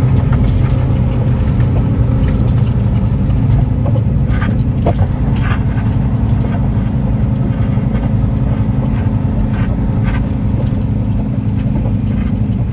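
Heavy truck engine running steadily with a low drone, with scattered light clicks over it.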